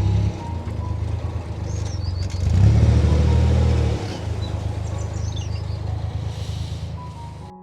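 Narrowboat's diesel engine running steadily, louder for about a second and a half in the middle, with small birds chirping now and then. It cuts off abruptly near the end.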